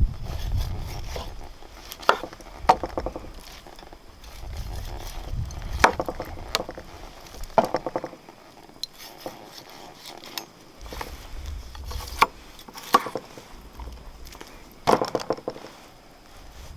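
Scattered sharp knocks and clinks, about eight, at irregular intervals, over a low rumble that comes and goes.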